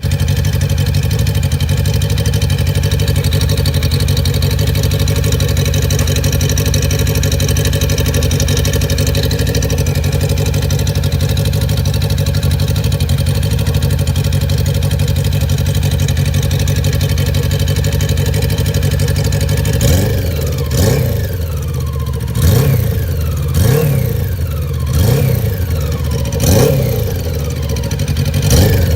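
Damaged car engine idling steadily, then revved in about eight short throttle blips from about two-thirds of the way in, each blip rising and falling in pitch and starting with a sharp crack.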